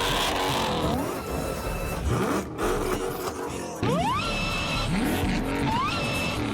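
Supercharged car engine accelerating hard, its pitch sweeping up several times in a row as it climbs through the gears, with a high supercharger whine.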